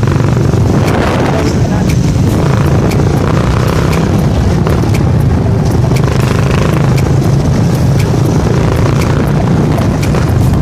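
Motorcycle engine running steadily while riding at a constant speed.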